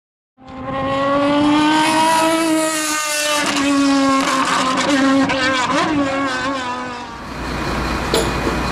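Racing car engine at high revs behind the intro, its pitch rising and falling a little. About seven seconds in it gives way to a steady street rumble.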